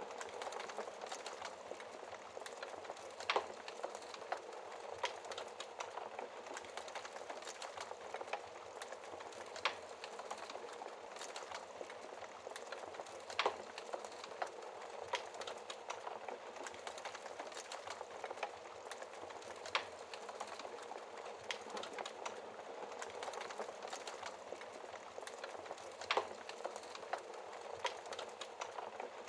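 Wood fire burning in a fireplace: a steady hiss with constant small crackles and a louder sharp pop every few seconds.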